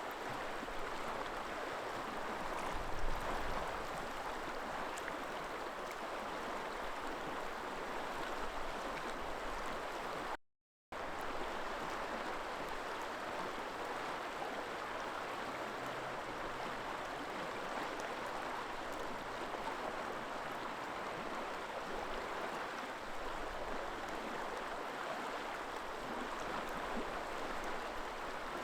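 River water flowing: a steady, even rushing, broken by a brief dropout to silence about ten seconds in.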